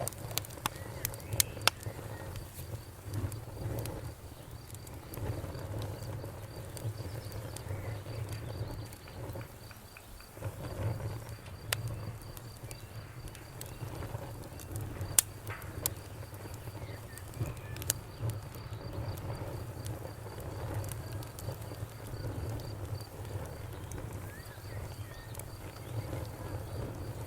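Wood fire burning in a fireplace: a steady low rumble of flames under irregular sharp crackles and pops, the loudest pop about fifteen seconds in. A faint high pulsing tone runs in the background.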